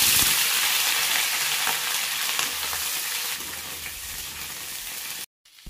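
Cauliflower florets sizzling in hot oil in a kadai as they are tipped in and stirred with a perforated steel spoon, with a few light clicks of the spoon. The sizzle is loudest at first, eases off gradually, and cuts off suddenly near the end.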